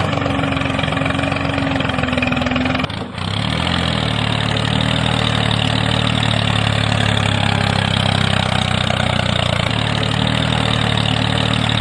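An engine running steadily. It breaks off briefly about three seconds in, then runs on evenly.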